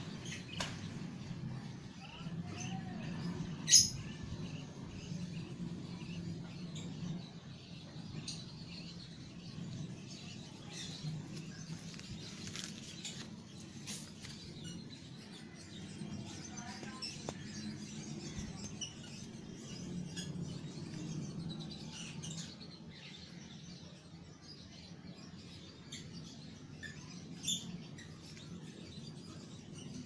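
Small birds chirping faintly and now and then over a low steady background rumble, with a sharp click about four seconds in and a smaller one near the end.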